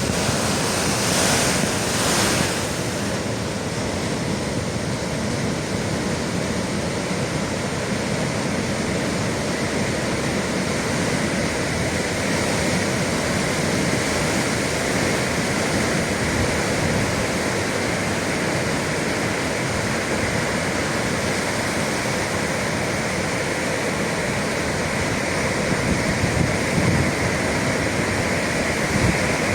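Atlantic Ocean surf washing in with a steady rush of waves, a little louder in the first few seconds, with some wind on the microphone.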